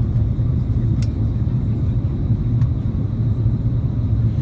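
Steady low rumble of an Airbus A330-300's cabin noise, its Rolls-Royce Trent 700 engines and airflow heard from inside, with a faint click about a second in.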